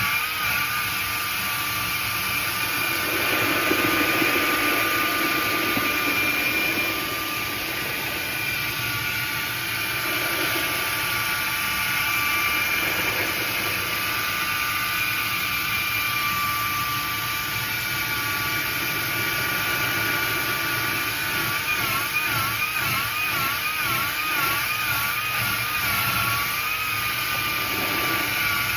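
Power mixer, most likely an electric drill with a paddle, running steadily while it stirs feed in a bucket. Its motor whine wavers in pitch near the start and again about two-thirds of the way through.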